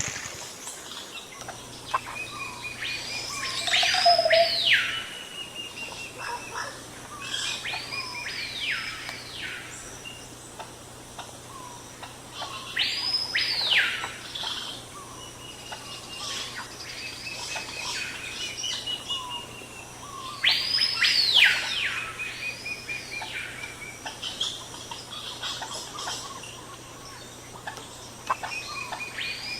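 A wild bird singing, repeating the same phrase every few seconds: a pair of clear whistles that each sweep up and back down, with a short rapid trill beside them.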